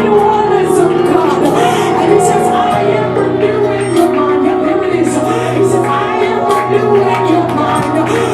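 Church worship music: held low keyboard notes and chords with voices singing and calling over them, and regular percussion hits. The bass note changes a little under three seconds in.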